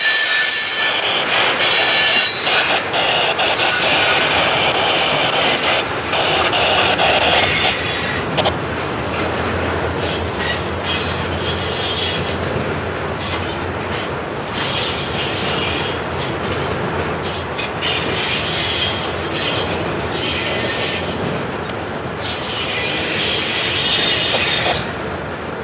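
Freight cars (a tank car, then flatcars loaded with rail) rolling past close by, with steel wheels rumbling on the track. A high-pitched wheel squeal comes and goes throughout.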